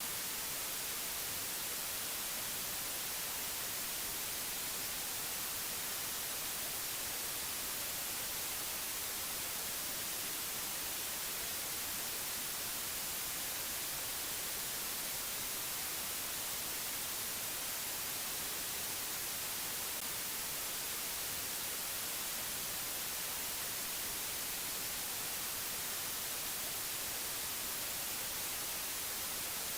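Steady white-noise hiss, brighter in the treble, even and unchanging throughout.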